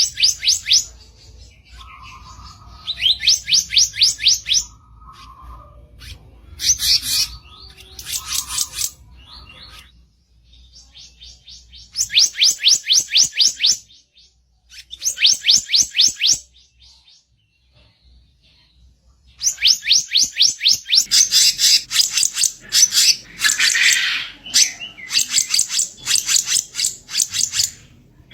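Black-naped monarch (kicap ranting) giving its harsh song: rapid runs of many repeated high notes, each run lasting one to two seconds, with short pauses between. About two-thirds of the way in, after a brief lull, the runs come thicker and almost without break.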